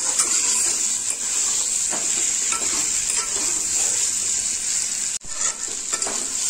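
Boiled potato pieces frying with masala in a kadai, sizzling steadily while a metal spatula stirs them, scraping and tapping against the pan. The sound cuts out for a moment about five seconds in.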